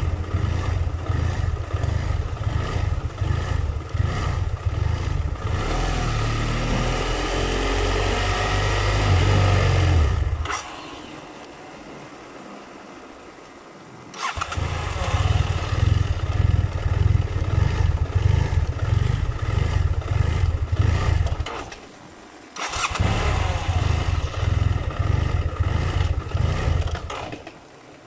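BMW F700GS parallel-twin engine idling unevenly and stalling, then restarted on the starter; this happens twice, and it stalls once more near the end. The unstable idle and stalling came from a faulty throttle position sensor.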